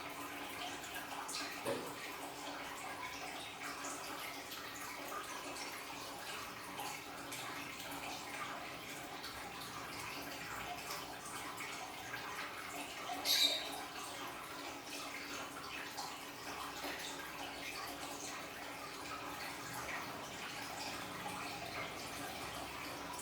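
Water trickling and splashing steadily from a small aquarium waterfall, over a faint low hum, with one louder splash a little past halfway.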